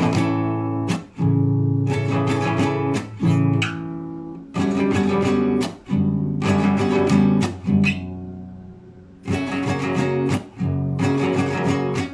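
Solo classical guitar improvising in arpeggiated chords. The chords come in short phrases of quick plucks, some left to ring and fade before the next phrase begins.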